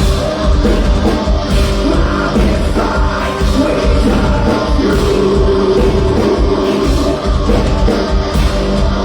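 Live rock band playing a loud, driving song: electric guitar, bass guitar and drums.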